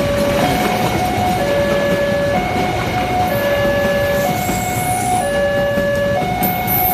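Level-crossing warning alarm sounding a steady hi-lo tone, switching between two pitches about once a second, over the rumble of a passing train.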